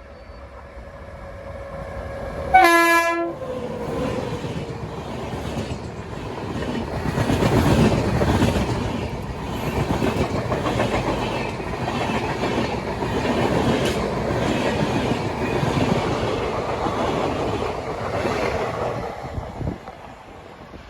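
A train horn sounds one short blast about three seconds in. Then a train passes, its wheels clattering over the rails in a steady rhythm for about fifteen seconds before the noise dies away near the end.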